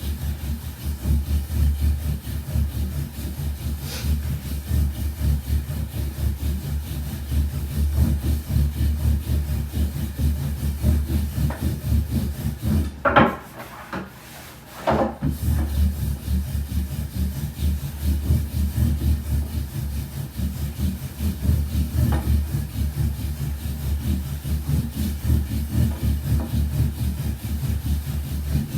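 Wooden rolling pin rolling soba dough out on a wooden board: a continuous low rolling noise with a rapid grainy texture. It breaks off for about two seconds near the middle, framed by a couple of sharp wooden knocks.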